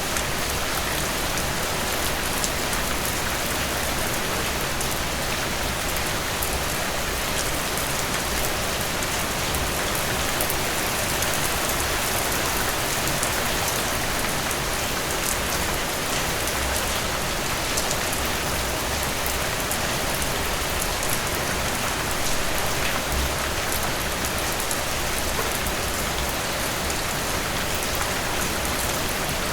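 Steady rain falling on a surface, an even hiss full of fine drop patter.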